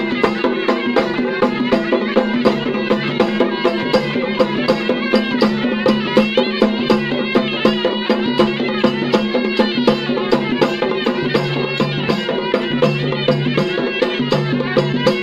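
Traditional tribal folk music: drums beating a fast, steady rhythm of about four strokes a second under a held drone and a wavering melody.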